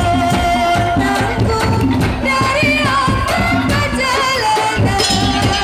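Madurese daul (tong-tong) music: steady drumming and percussion under a wavering, held melody line.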